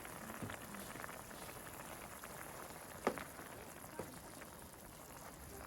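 Pot of braised pork and potatoes simmering with a soft, steady bubbling; two small clicks about three and four seconds in.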